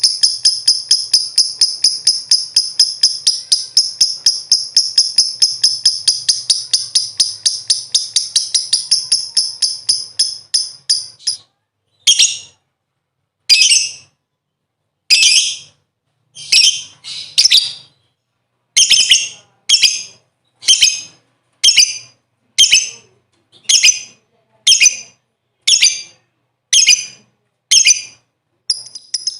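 Lovebird's rapid chattering trill (ngekek): shrill notes repeating several times a second for about eleven seconds, then breaking into short separate bursts about once a second.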